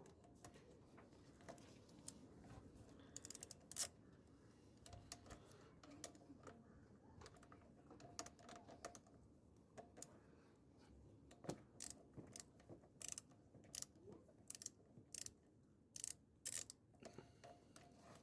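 Irregular clicks and short rattles from hand tools and small parts being handled, coming more often in the second half.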